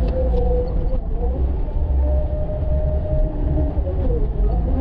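Heavy snow-plowing machine's diesel engine running under load with a deep steady rumble. Its pitch rises a little about a second and a half in, holds, then drops back near the end.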